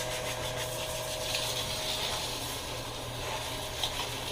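Steady hiss of water spraying from a handheld shower head onto a dog's wet coat.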